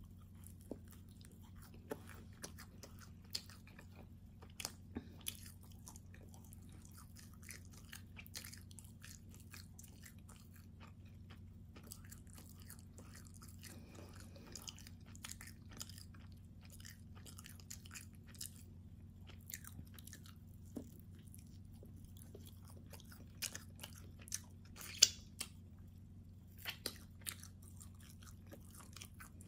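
A person chewing and biting into a soft calzone, with many short wet mouth clicks and smacks and one sharper click near the end. A low steady hum runs underneath.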